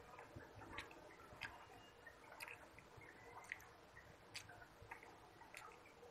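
Faint mouth sounds of a person eating rice and curry by hand: irregular wet clicks and smacks of chewing, roughly once a second.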